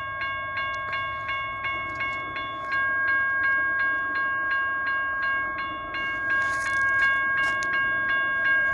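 Railroad grade-crossing bell ringing at an even beat of about three strokes a second. From about six seconds in, the noise of the passing train grows beneath it.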